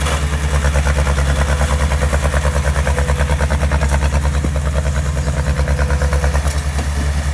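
Heavy diesel engine of construction equipment running steadily with a fast, even low pulse.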